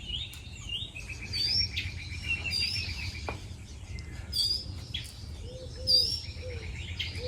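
Several songbirds singing: a repeated trill and rising whistled notes. In the last two seconds a dove gives a series of soft, low coos.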